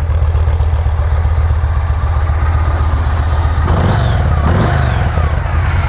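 2012 Yamaha Stratoliner's 113 cubic inch (1854 cc) air-cooled V-twin idling steadily through its factory 2-into-1 exhaust. Two short bursts of hissy noise come a little after the middle.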